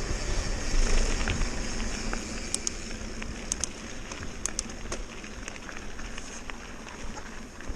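Mountain bike rolling over a rough dirt trail: steady tyre and wind rush with many small scattered clicks and rattles.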